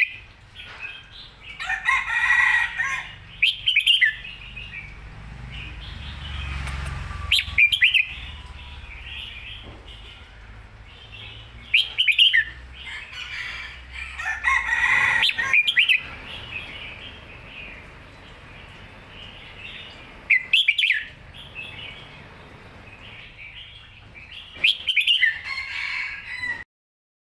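Red-whiskered bulbul singing: short, bright whistled phrases every few seconds, with quieter chirps between them. The sound cuts off suddenly near the end.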